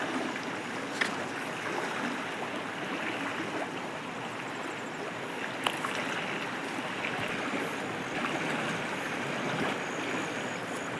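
Steady rushing of a stream flowing, with a couple of faint clicks.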